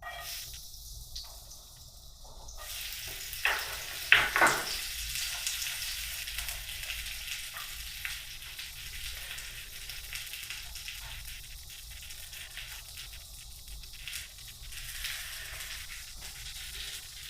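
Food sizzling in a frying pan, a steady hiss that swells up about two and a half seconds in. A few sharp knocks, the loudest sounds, come around four seconds in.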